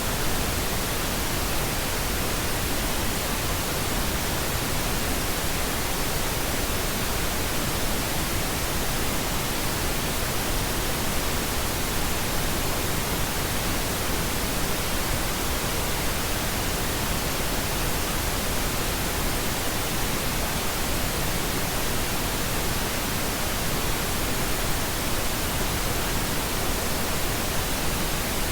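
Steady pink noise: an even, unchanging hiss spread across all pitches, weighted toward the low end and softer than white noise.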